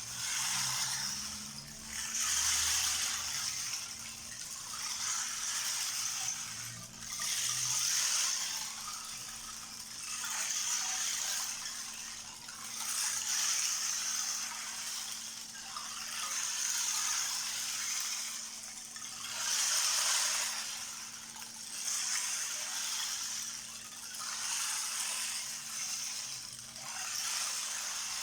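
12-inch rain disk being tilted back and forth, its beads rolling across the head in repeated swells of hissing, rain-like rattle, about one swell every two to three seconds.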